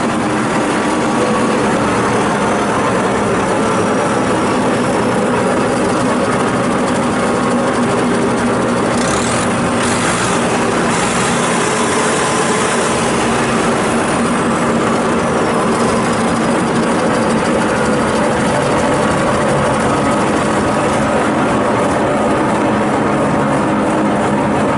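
Morbark 2400XL wood chipper running steadily with its Perkins four-cylinder turbo diesel engine and the chipper engaged, a loud, even machine noise. Faint high whistles glide in pitch now and then.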